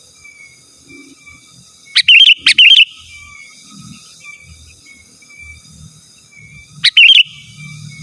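Sooty-headed bulbul (kutilang) calling loudly in short bubbly phrases: two in quick succession about two seconds in and another near the end.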